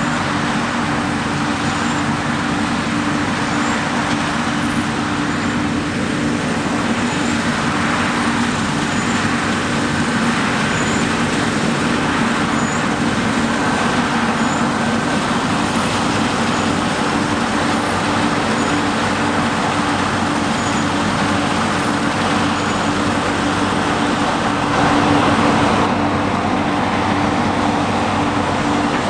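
Heavy diesel harvest machinery running steadily: a constant engine hum with a broad mechanical noise, swelling briefly about 25 seconds in.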